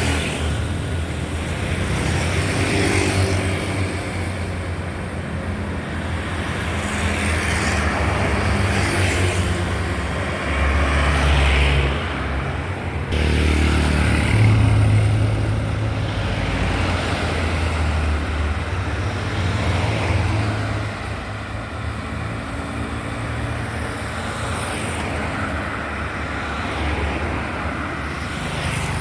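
Road traffic: vehicles passing one after another, their low engine rumble swelling and fading every few seconds, with tyre and road noise.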